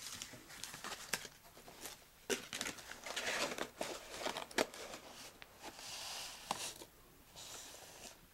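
Paper and cardstock being handled: irregular rustling with light taps and clicks, and two longer soft sliding rustles around six and seven and a half seconds in.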